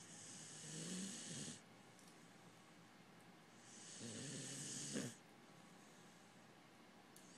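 Pharaoh hound snoring in its sleep: two long snoring breaths about three and a half seconds apart, each growing louder before it stops, the second ending in a brief sharp click.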